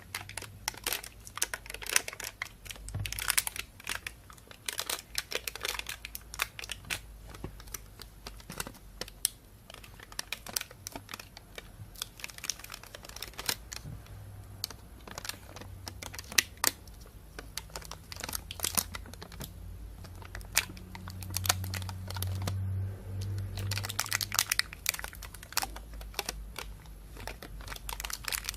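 Thin plastic bag being crinkled and handled, a stream of sharp crackles that come in clusters with brief quieter gaps.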